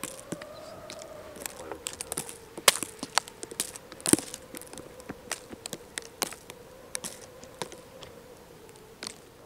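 Irregular sharp clicks and crackles, the loudest about two and a half and four seconds in, over a faint steady hum.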